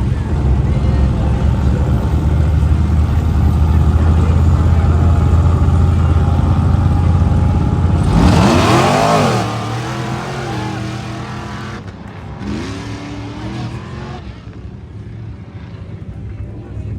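A high-powered off-road race vehicle's engine running loud and steady, then revving hard about eight seconds in with a rise and fall in pitch. A second, quieter rev comes a few seconds later before the sound fades.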